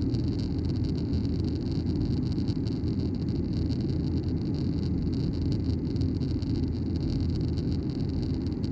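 Steady cabin roar of a Boeing 737-900ER airliner in flight: engine and airflow noise heard from a passenger seat, even and unchanging.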